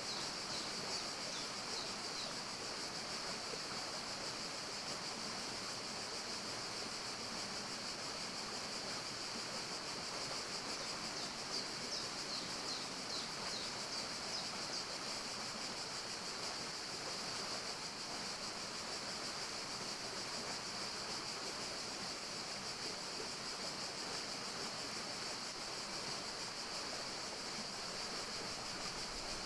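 Forest ambience: a steady, even rushing like running water, with a high hiss over it and brief runs of short, high chirps near the start and again about twelve seconds in.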